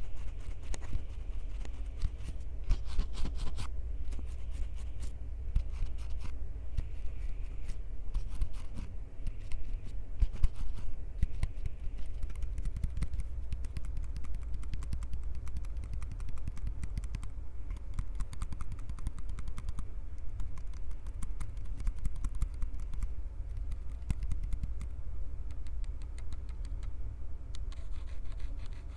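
Hands gripping, squeezing and rubbing a Tascam recorder right against its microphones: a dense run of small crackling clicks and scratches over a steady low rumble.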